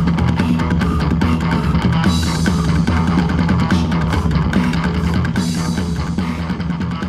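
Fast psychobilly rock music with electric guitar, bass and drums playing, getting a little quieter near the end.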